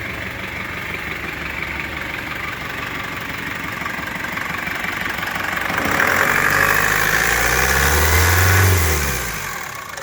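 2013 Foton Tunland's 2.8-litre turbo diesel engine idling, then revved up about six seconds in, held for a few seconds with a whine rising in it, and let fall back to idle near the end. The engine runs cleanly, tested as good.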